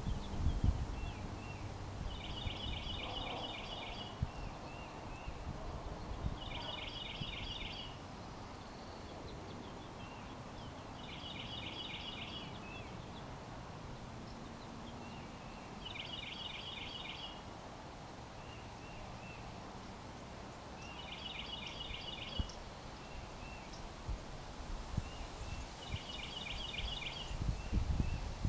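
A songbird singing the same short, rapidly trilled phrase six times, about every four to five seconds, with softer single chirps between phrases, over a low background rumble.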